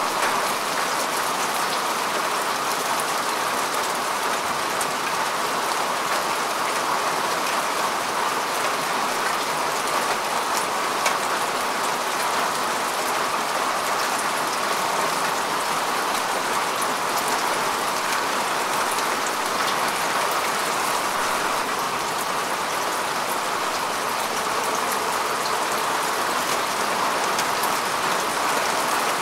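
Steady rain falling on grass and earth, an even hiss with scattered individual drop ticks.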